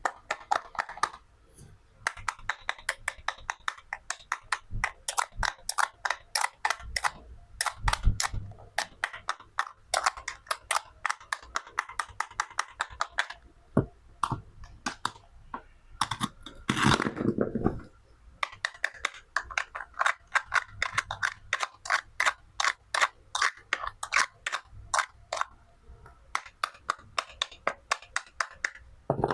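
Toy knife tapping and cutting play fruit and vegetables on a board: rapid crisp clicks, several a second, with a brief pause near the start and one longer, fuller noisy sound about two-thirds of the way through.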